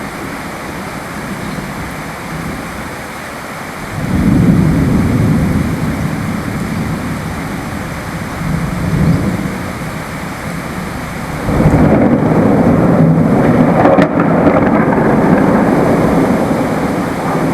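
Steady rain with thunder rolling in twice: a low rumble about four seconds in, and a longer, louder roll starting about two-thirds of the way through.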